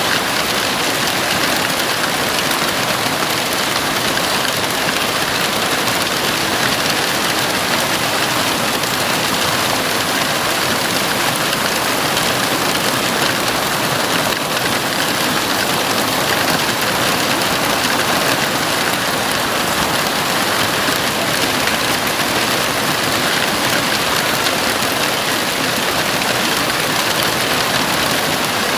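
Heavy rain falling steadily on a house roof, a dense, even hiss with no breaks.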